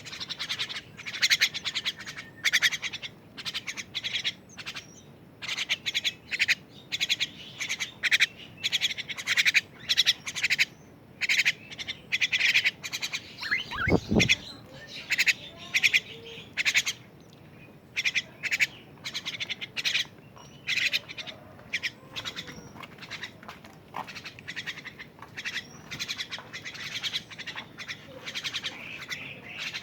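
Twelve-day-old thrush chick chirping over and over in short bursts of rapid, high chirps, the insistent calling of a hand-reared nestling begging for food. A brief low sound comes about halfway through.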